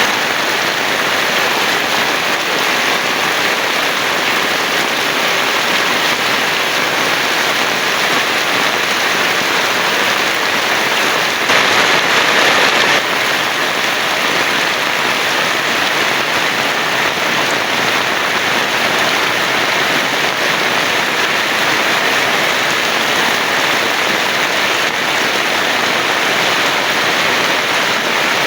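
Heavy rain falling steadily, with a brief louder surge about twelve seconds in.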